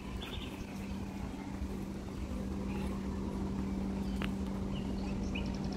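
Small birds chirping and twittering in short calls, with a quick high trill near the end, over a steady low hum and rumble of distant motor noise.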